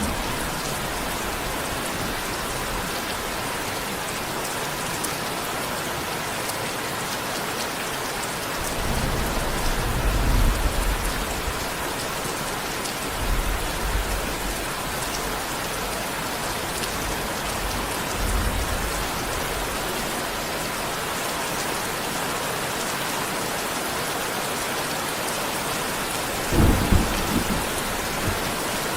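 Steady heavy rain, with low rolls of thunder rumbling about a third of the way in and a sharper, louder thunderclap near the end.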